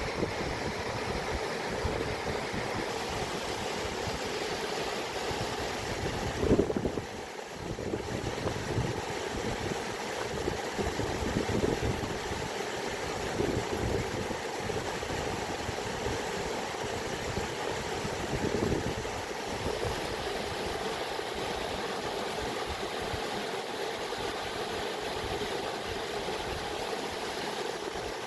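Running water, a steady rush with a restless low rumble, briefly louder and then dipping about six to seven seconds in.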